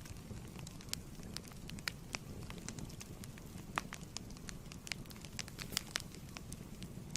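Fireplace wood fire burning: a steady low rumble with frequent sharp, irregular crackles and pops.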